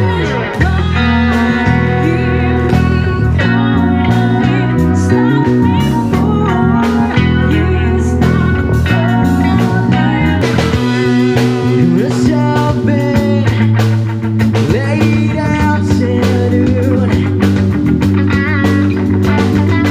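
Live rock band playing: electric guitar with wavering, bent notes over a moving bass line and drums.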